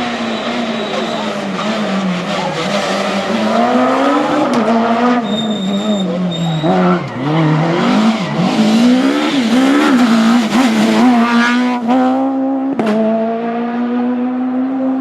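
Rally car engine at full effort on a special stage, its pitch climbing and dropping through gear changes and braking, with a sharp pop about two-thirds of the way through. It then holds a steady note near the end.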